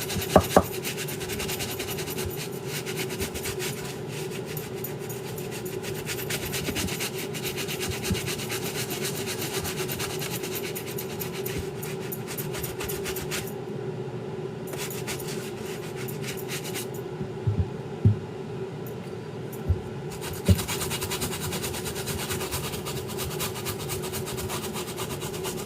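A brush scrubbing the rubber soles of sneakers in rapid strokes, cleaning the dirty bottoms, pausing briefly twice with a few knocks in the middle. A steady low hum runs underneath.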